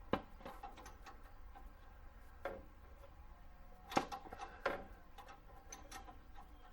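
Hand tools clinking and knocking against metal while working on a brake line fitting with a wrench: four louder knocks among scattered lighter ticks, over a low steady hum.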